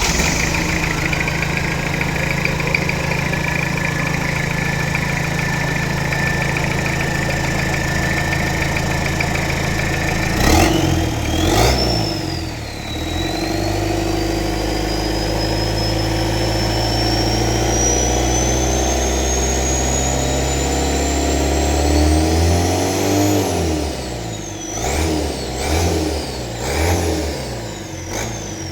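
Toyota 3L 2.8-litre diesel engine with an IHI RHB5 ball-bearing turbo, just fired up and idling with a steady high turbo whine. About ten seconds in it is revved, and the turbo whistle climbs steadily higher as the engine is held at higher revs. Near the end a few quick throttle blips make the whistle rise and fall.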